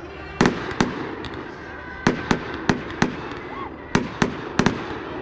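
A string of sharp cracks going off at irregular intervals, about ten in all, over a background of voices.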